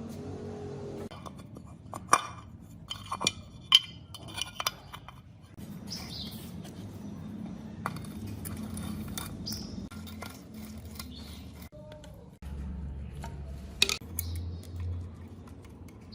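Metal tools and motorcycle parts clinking and tapping during workshop work: a cluster of sharp clinks a couple of seconds in and another near the end, over a low steady hum.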